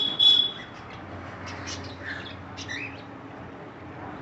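Caged birds calling: a loud, held whistle-like call right at the start, then several short chirps through the middle.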